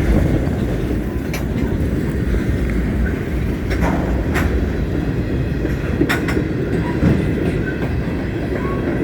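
CSX freight train's rear cars rolling past: a steady low rumble of wheels on rail, with sharp clicks every second or two as wheels cross rail joints.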